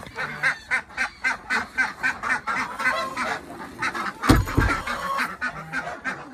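A flock of domestic ducks and geese calling together, a fast, continuous run of quacks and honks at about five calls a second. About four seconds in there is one loud thump.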